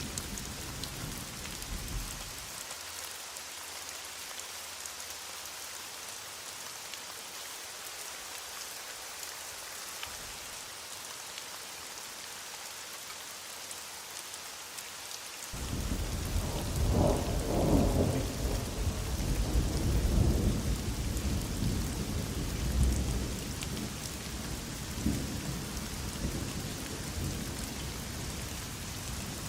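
Heavy rain falling steadily, with a low thunder rumble dying away in the first couple of seconds. About halfway through, a thunderclap rolls in suddenly, loudest a few seconds after it begins, then keeps rumbling more quietly.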